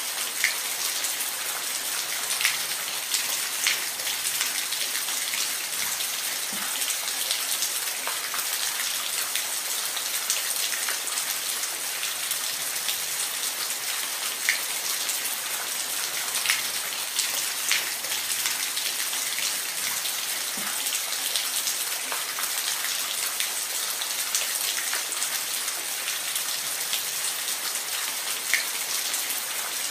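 Falling water running steadily as an even, high hiss, with scattered sharp ticks of single drops and splashes.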